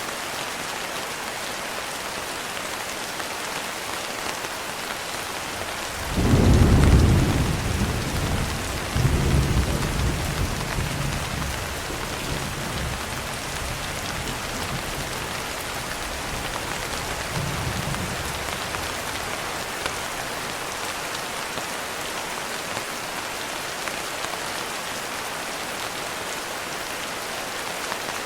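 Steady rain with a low rumble of thunder about six seconds in. The rumble swells again a few seconds later and fades away over several seconds.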